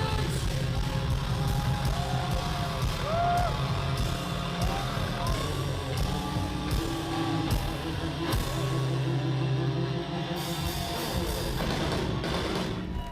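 A heavy metal band playing live, with electric guitars, drum kit and vocals over a sustained low bass line.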